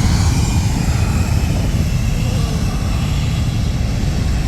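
Airplane passing low overhead: a loud, heavy engine rumble with a high whine that slowly falls in pitch as it goes by.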